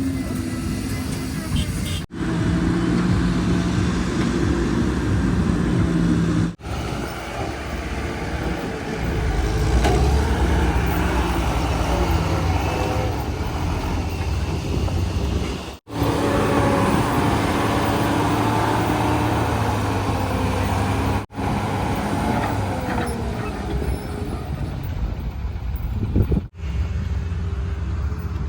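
Heavy diesel engines running, their pitch and loudness shifting from one stretch to the next. The sound drops out briefly five times.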